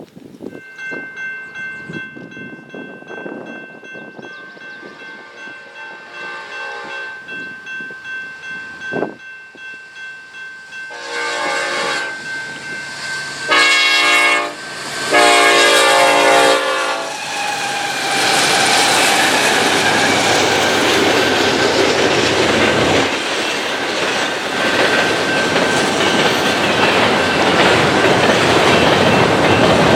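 A diesel locomotive horn blows the grade-crossing signal as a train approaches: a faint long blast, a louder long blast, a short one and a final long one. The train then rolls past loudly, its wheels clicking over the rail joints.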